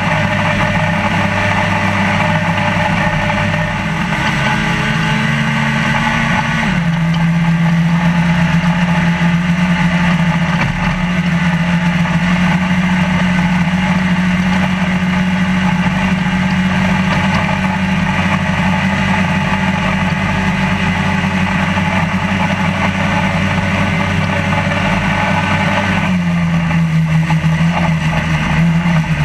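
Trophylite off-road race truck's engine heard from inside the cab, running steadily under load. Its pitch drops a step about seven seconds in, and dips briefly again near the end before coming back up.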